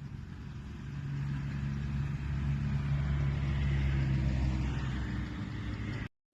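Motor vehicle engine running with a steady low hum, growing louder through the middle, then cut off abruptly near the end.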